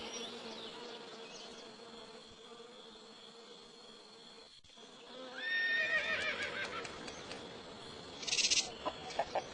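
A horse whinnying once, a wavering call about halfway through, followed near the end by a short hissy burst and a few clicks.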